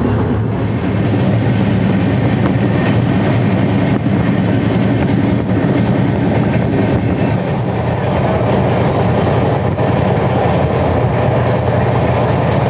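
Passenger express train, the 18450 Baidyanath Dham Express, running along the line, heard from on board: a steady loud rumble of wheels on track, with a few faint clicks.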